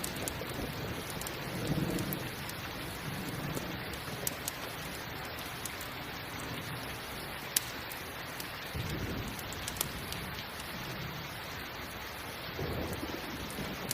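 Steady rain with a few low rumbles of thunder, about 2, 9 and 13 seconds in. Now and then a single sharp crackle from a campfire, the loudest about two-thirds of the way through.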